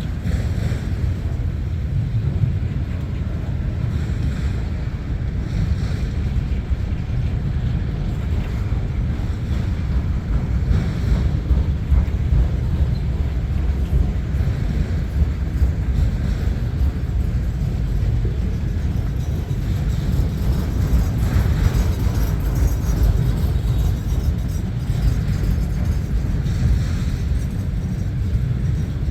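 Steady low rumble of a CN freight train rolling past, with wind buffeting the microphone.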